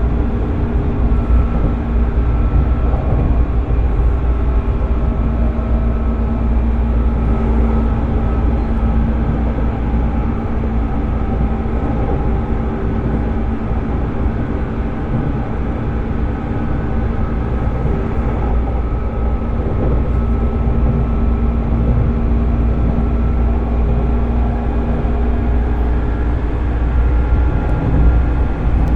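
JR 205-series electric train motor car with MT61 externally ventilated DC traction motors running at a fairly steady speed. A steady motor and gear whine sits over the low rumble of the wheels on the rails.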